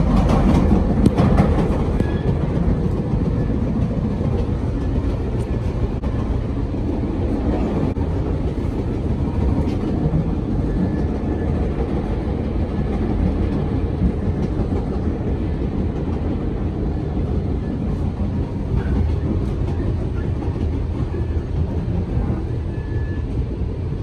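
Moving passenger train heard from inside the car: a steady low rumble of wheels on the rails, with a few clicks near the start.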